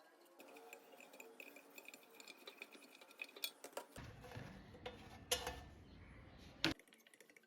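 Metal parts and tools clinking and tapping against each other, with two sharper knocks about five and a half and six and a half seconds in, over a low rumble.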